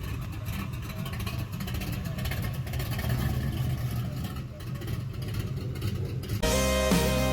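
A car engine running with a low, uneven rumble. Music with guitar and drums cuts in suddenly near the end, louder than the engine.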